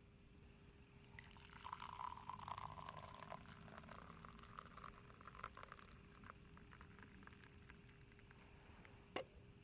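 Liquid being poured, a soft splashing pour for about two seconds, followed by small scattered clicks and one sharper click near the end.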